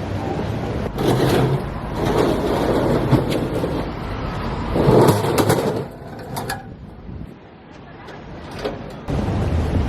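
Indistinct voices of people talking over a steady background rumble. It turns quieter for a few seconds before the voices pick up again near the end.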